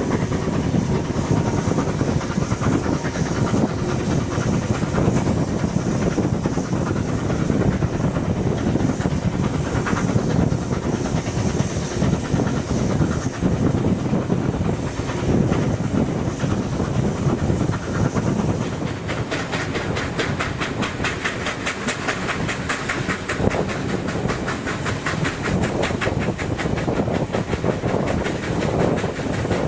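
Steam locomotive 3801 and its train running, a dense rumble with steam hiss; about two-thirds of the way in it gives way to a rapid, even clatter of wheels on rail.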